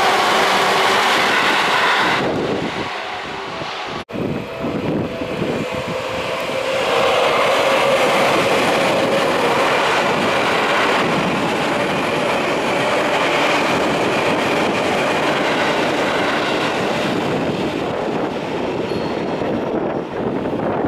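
Seibu Shinjuku Line electric train passing over a level crossing, its wheels clattering over the rails. About four seconds in the sound breaks off for an instant, and a rising whine follows over the next few seconds.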